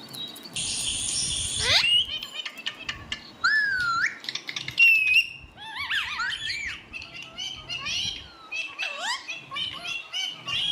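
Pet parrot whistling and chattering in a run of rising and falling whistles and short chirps. Near the start there is a harsh, rasping sound about a second long.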